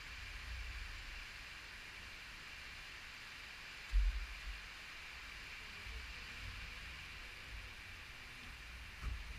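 Wind storm gusts buffeting the microphone as low rumbles, with a strong gust about four seconds in and another near the end, over a steady hiss.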